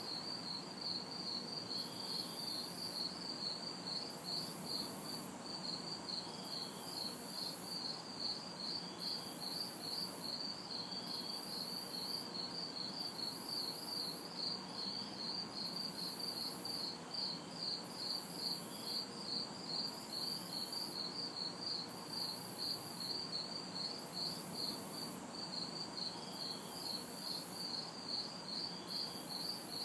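Night insect chorus: crickets chirping in a fast, steady pulse, with a higher, shrill insect call switching on and off about once a second. Beneath them lies a faint, steady low hum of distant city traffic.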